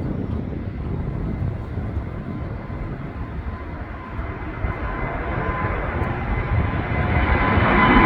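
Jet airliner taking off. Its engine noise swells from about halfway through, with a steady whine rising over the rumble. Wind buffets the microphone underneath.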